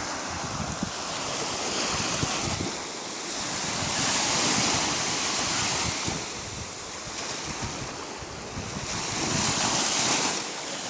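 Caspian Sea waves surging and washing in, swelling louder three times as the surf comes in and falling back between.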